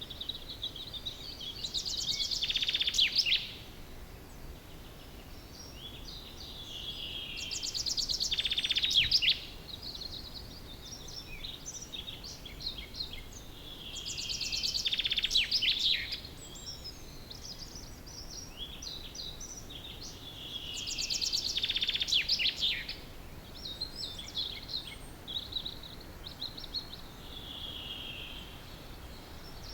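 Common chaffinch singing its song four times, about every six seconds. Each phrase is a fast run of repeated notes that grows louder and ends in a brief downward flourish. Other birds chirp faintly in between.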